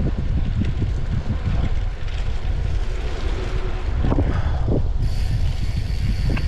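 Wind buffeting an action camera's microphone while cycling, a heavy unsteady low rumble. About five seconds in, a thin steady high whine joins it.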